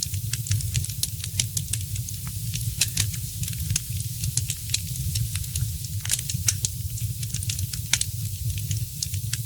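Wood fire crackling: frequent irregular sharp pops and snaps over a steady low rumble and hiss of burning.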